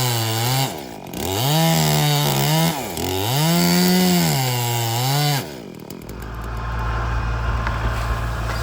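Chainsaw running at high revs, its pitch dipping and climbing back several times as it is throttled and loaded in the wood. It stops about five and a half seconds in, and a lower, steady engine rumble carries on.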